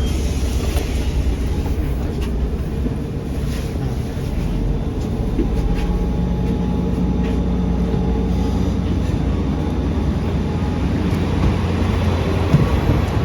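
Steady low rumble of a transit vehicle heard from inside while riding, with a faint steady hum joining for a few seconds in the middle.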